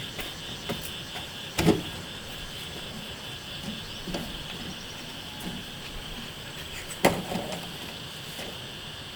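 Two sharp knocks, one about one and a half seconds in and one about seven seconds in, with a few lighter taps between, over a steady high chirring of insects.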